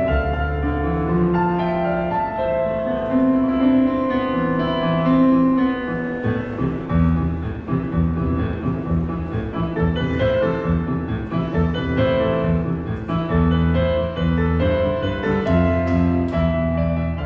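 Piano playing an instrumental passage, with held chords and a steady bass line.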